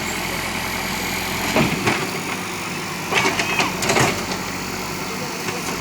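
JCB backhoe loader's diesel engine running steadily, with several short knocks and cracks about one and a half seconds in and again between three and four seconds in.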